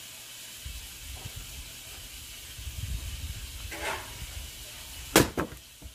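A steady hiss over a low rumble, with a brief pitched sound partway through. Near the end come two sharp knocks in quick succession.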